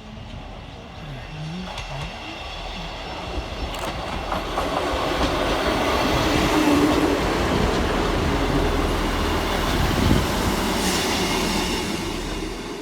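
Scotrail Class 158 diesel multiple unit running into the station, its engine and wheels on the rails growing louder over several seconds, then holding steady and easing off near the end.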